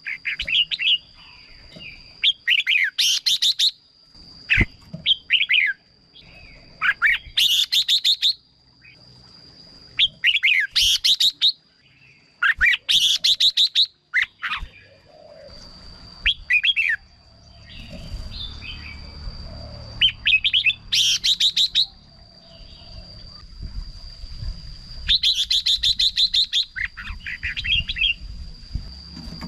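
Red-whiskered bulbul singing short, bright song phrases, repeated every two or three seconds, with a steady thin high tone behind them.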